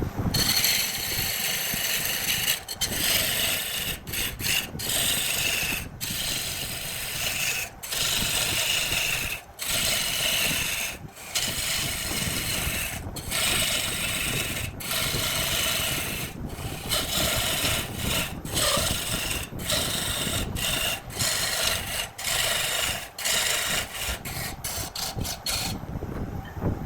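Wood being worked on a spinning lathe: a turning tool or abrasive scraping and shaving the wood in a steady rasping noise, broken by many brief pauses and stopping near the end.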